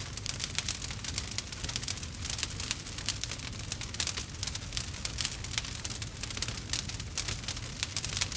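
Campfire burning, with many irregular sharp crackles over a low, steady rumble.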